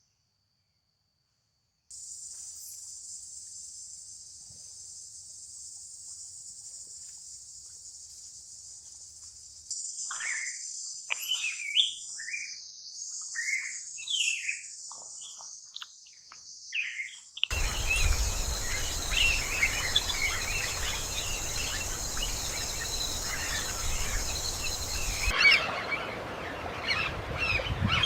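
Tropical forest ambience: a steady high-pitched insect buzz, joined after a few seconds by repeated falling bird chirps. Partway through it switches abruptly to a louder, denser chorus of bird calls over the buzz and a rushing background. Near the end the buzz cuts out and only the chirping birds remain.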